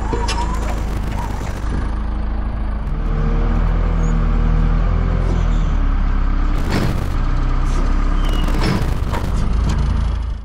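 Tractor engine running under load, revving up about three seconds in and holding there, with a few sharp clunks from about seven seconds on.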